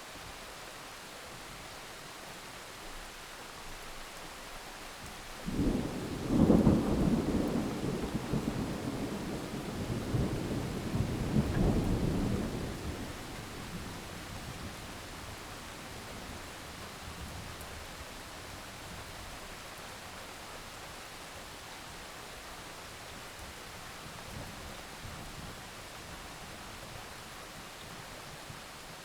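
Steady heavy rain, broken about five seconds in by a sudden clap of thunder that rumbles on for several seconds, swelling again before dying away; rain continues after.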